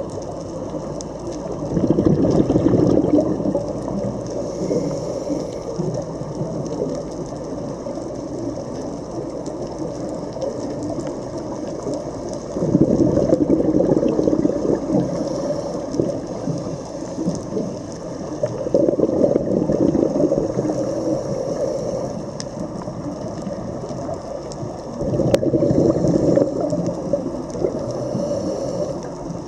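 Underwater noise from a scuba dive: a steady low rumble, swelling four times into louder bubbling surges a few seconds long, typical of a diver's regulator exhaust bubbles on each exhale.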